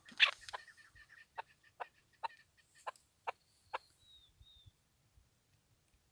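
Chukar partridge calling: a loud note at the start, then a series of sharp clucking notes about two a second, followed by two short, high, thin notes about four seconds in.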